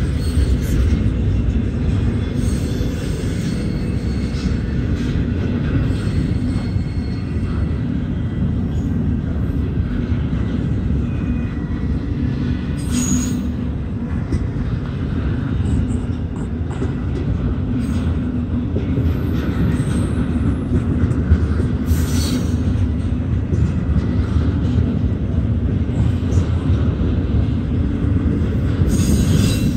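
Double-stack intermodal train's loaded well cars rolling past with a steady low rumble of wheels on rail as the train slows. A few brief high-pitched metallic screeches cut in, a little under halfway, about three-quarters of the way through and near the end.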